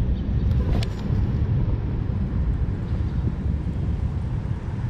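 Sanyo 2-ton heat pump outdoor unit running, a steady low rumble with an even whoosh above it.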